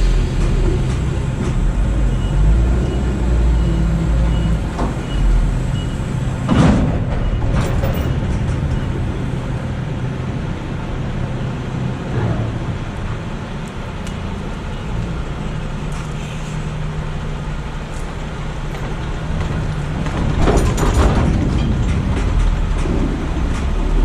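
Semi truck running down the road: a steady low engine rumble with road noise. A faint regular ticking lasts a few seconds near the start, a short sharp hiss comes about a third of the way in, and a louder noisy swell comes near the end.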